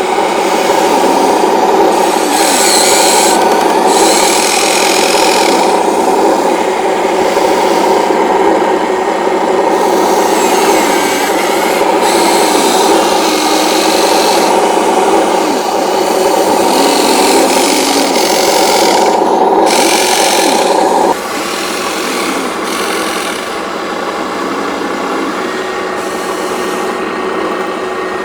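Electric motors and gearboxes of radio-controlled toy construction vehicles running steadily. About three quarters of the way through, part of the sound cuts off suddenly, as one drive stops, and what remains is quieter.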